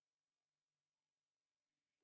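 Digital silence: the soundtrack drops out completely.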